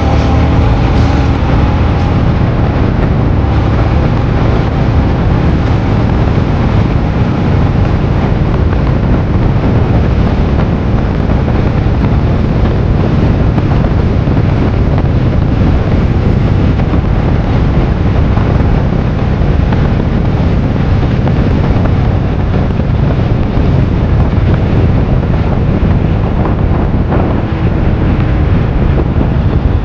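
Royal Enfield Himalayan 411's single-cylinder engine running steadily while the bike is ridden, with heavy wind noise on the microphone.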